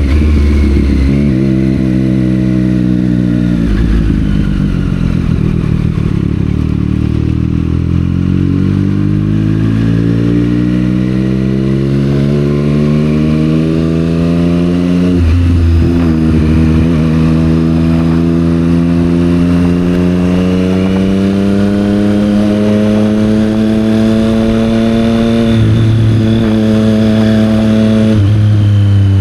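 Triumph Street Triple 765 R with a Yoshimura aftermarket exhaust, its inline three-cylinder engine pulling through the gears. The engine note eases down at first, then rises slowly for about eleven seconds, drops sharply at a gear change about fifteen seconds in, and climbs again, with further drops near the end.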